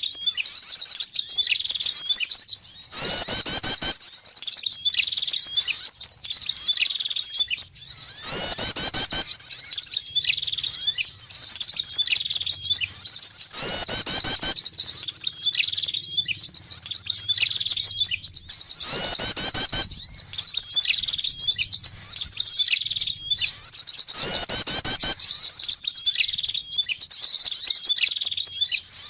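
Bird-lure recording of small songbirds such as prinias chirping and twittering rapidly and without pause. A short burst of noise recurs about every five and a half seconds, a sign of a looped track.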